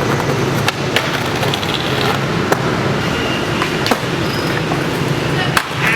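Skateboard wheels rolling over rough pavement with a steady rumble, clacking sharply every second or so as they hit cracks.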